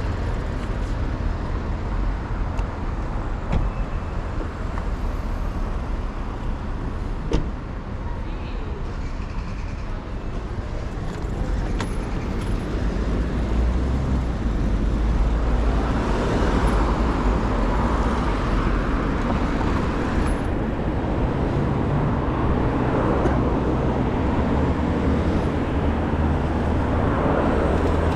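City street traffic: cars passing with a steady road rumble that grows louder and fuller about halfway through, with a few sharp clicks in the first half.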